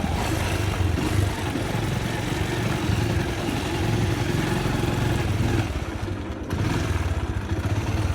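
Motorcycle engine running steadily, with a rapid, even firing pulse and a slight dip in level about two-thirds of the way through.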